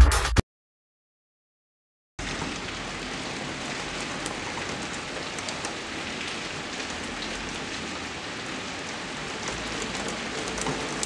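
Electronic music cuts off, about a second and a half of silence, then steady rain falling. Faint music comes in near the end.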